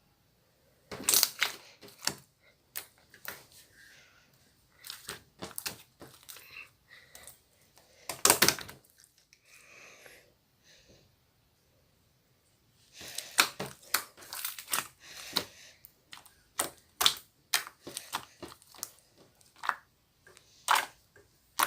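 Slime being worked by hand, making groups of sharp clicking and crackling pops with short pauses between them.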